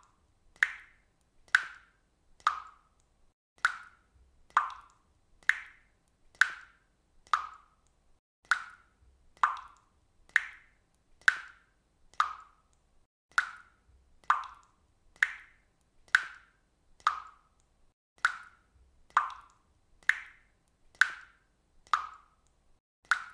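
Faucet dripping water: single drops falling at a steady pace of about one a second, each a short pitched drip.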